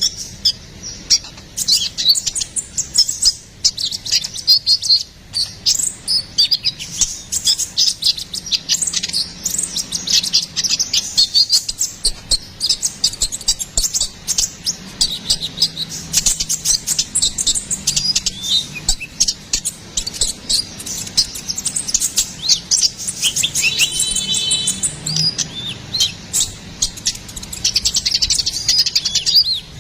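Konin (kolibri ninja) sunbird singing in a fast, unbroken stream of high-pitched chirps and trills, with a short buzzy note about three-quarters of the way through. This is the loud, full song that keepers play to lure wild birds and to tutor caged songbirds.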